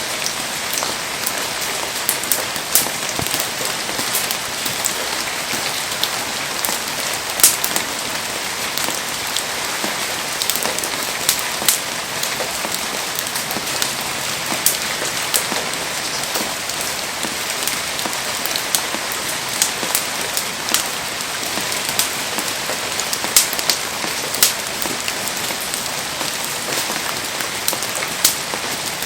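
Heavy rain falling steadily, an even hiss with frequent sharp ticks of drops striking nearby surfaces.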